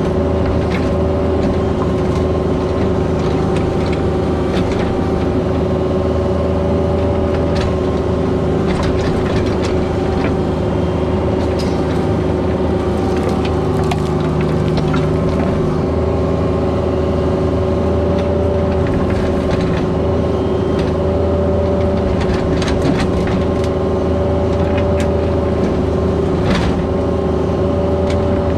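Mini excavator's diesel engine running steadily under working load, with scattered knocks and scrapes of the bucket in stone and soil.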